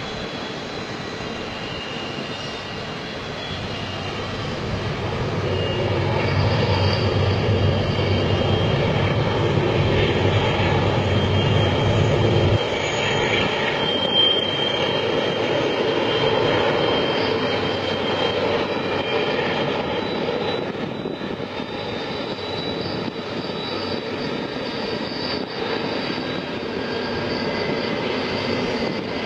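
Freight train running past with a continuous rumble and roar that swells about five seconds in. The deepest rumble drops away suddenly about twelve seconds in, and a lighter roar carries on after it.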